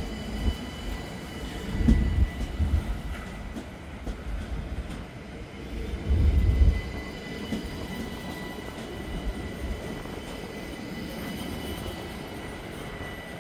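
An electric train running on the line, with a steady low rumble that surges louder about two seconds and about six seconds in, and a thin steady high whine above it. The sound eases off toward the end.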